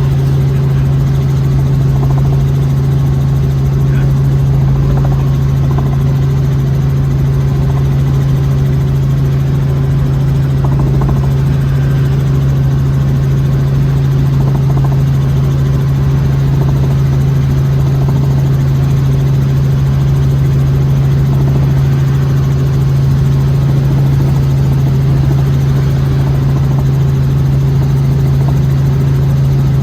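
Helicopter running, a loud, steady drone dominated by one strong low hum, with no change in pitch or level.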